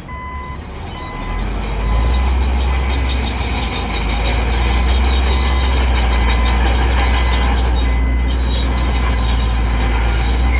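Crawler bulldozer working under load: its diesel engine's heavy rumble swells about a second and a half in and then holds steady, over the squeal and clank of its steel tracks.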